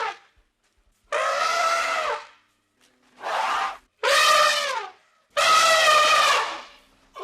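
An animal calling four times in loud, drawn-out, harsh cries with a wavering pitch, separated by short silences.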